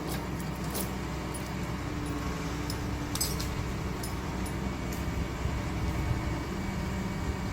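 Excavator engine running steadily, with a few short clinks about one and three seconds in.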